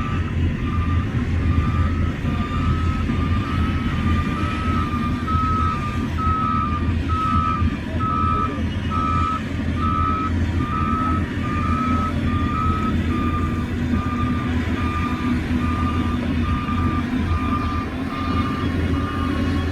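Heavy diesel earthmoving machine's backup alarm beeping in a steady alternating two-pitch pattern while it reverses, over the low drone of its engine.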